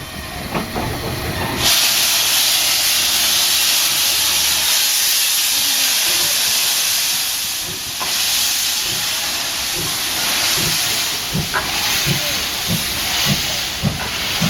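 C11-class steam locomotive hissing loudly with steam as it starts away. From about two-thirds of the way in, its exhaust beats come through the hiss at about one and a half a second.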